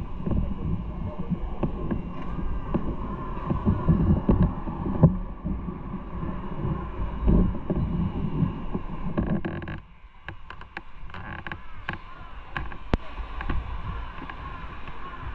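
Motorcycle on the move: engine and wind rumble buffeting the microphone. The low rumble drops away abruptly about ten seconds in, leaving lighter noise with scattered clicks.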